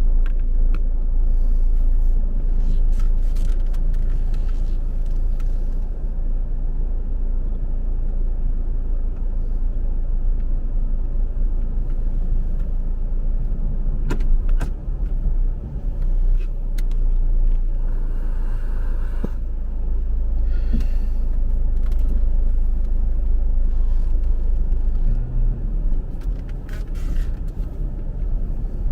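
A steady, loud low rumble with a few short clicks and knocks scattered through it.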